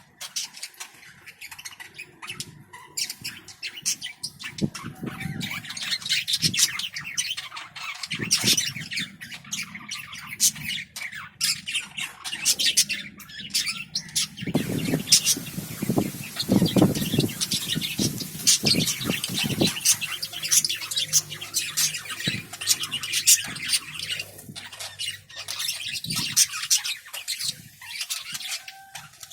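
Small pet parrots chattering and squawking continuously, with many quick clicking calls, and a stretch of heavier low noise for several seconds in the middle.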